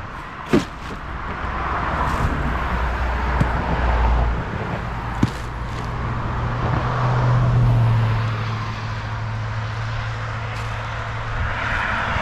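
Road traffic on a busy highway: cars passing one after another, the noise swelling and fading. A short sharp click about half a second in, and a smaller one around five seconds.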